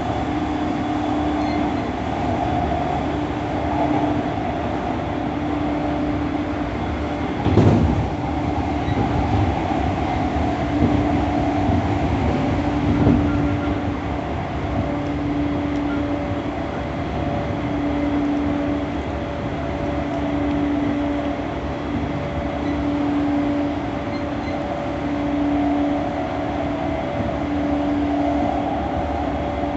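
E231-1000 series commuter train running at speed: a steady rumble of wheels on rail with a constant low hum, and a sharp knock about eight seconds in.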